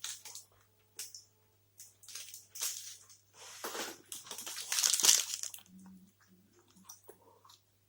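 Close-miked eating of a Gainomax blueberry protein bar: a run of short chewing and mouth sounds, loudest and most continuous about four to five seconds in, then fainter and sparser.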